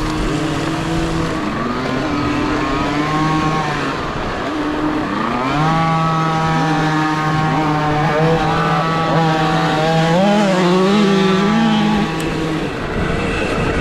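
KTM SX-E5 electric mini motocross bike's motor whining, its pitch gliding up and down with the throttle and speed over a rough track, with several steady tones underneath and a constant rush of wind and ground noise.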